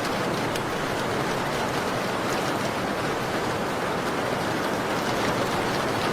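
Steady rain falling on a window, an even hiss with faint scattered ticks.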